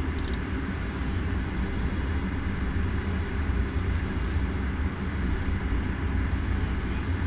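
Steady cabin noise in the cockpit of a Cessna Citation V jet in flight: airflow and its twin turbofan engines make a constant low drone.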